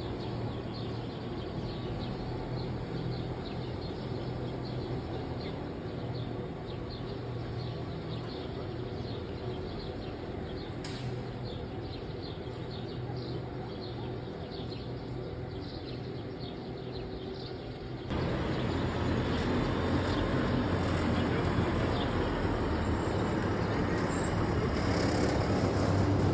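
Electric rack-railway train running at a distance, a steady low hum with light rhythmic ticking. About two-thirds of the way through, the sound cuts abruptly to a louder, fuller wash of noise.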